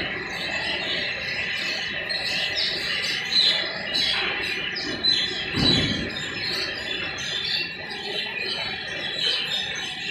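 Birds chirping, many short calls in quick succession.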